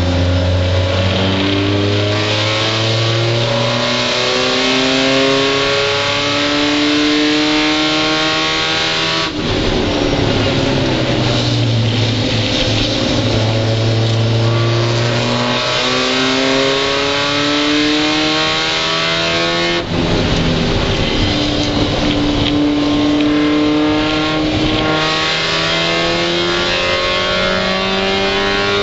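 Mazda Miata race car's four-cylinder engine heard from inside the cockpit, pulling hard with its pitch climbing in long runs, broken briefly twice, about nine and twenty seconds in. A steady hiss from the wet track and spray runs underneath.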